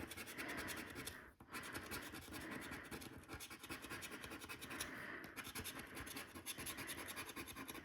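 Coin or fingernail scraping the latex panel off a lottery scratchcard, a fine rapid scratching that runs in short strokes with a brief pause a little over a second in.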